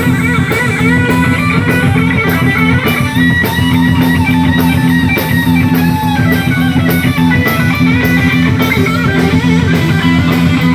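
Rock and roll band playing an instrumental passage: electric guitar over a drum kit, with cymbal strokes about twice a second.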